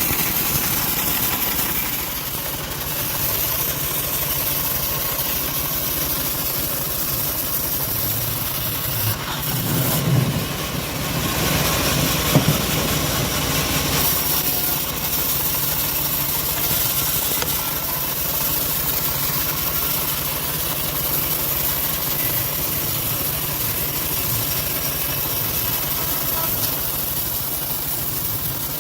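Engine of a homemade band-saw sawmill running steadily at an even speed. It gets somewhat louder and noisier for a few seconds about ten to thirteen seconds in.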